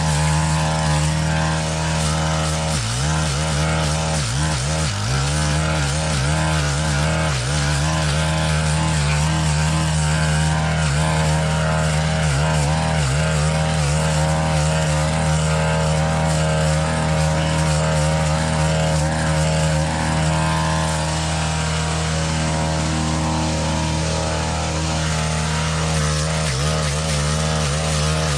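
Stihl FS-131 brush cutter's small four-stroke 4-MIX engine running at high throttle, its pitch dipping briefly a few times as the mulching blade bites into dense canary grass.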